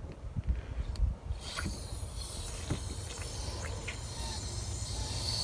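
Garden hose water coming on about a second and a half in, then a steady hiss of spraying water, over a low rumble of wind and handling and a few light knocks.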